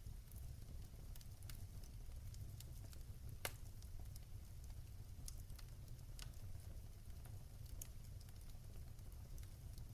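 Fire crackling in a fireplace: scattered sharp pops and snaps over a low steady rumble, with one louder pop about three and a half seconds in.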